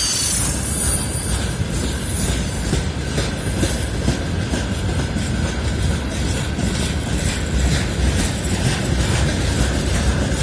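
Freight train rolling past at slow speed: a steady low rumble of the wagons, with a run of clicks as the wheels cross rail joints.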